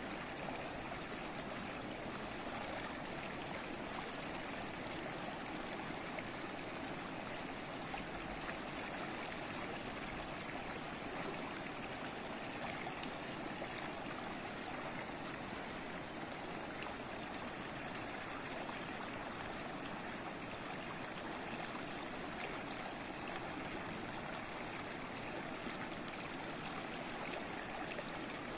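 Babbling stream, flowing water running steadily and evenly with no breaks.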